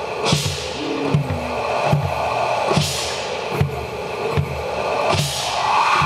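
Drumming at a steady beat, a deep drum struck about every 0.8 seconds, with loud hissing swells every couple of seconds.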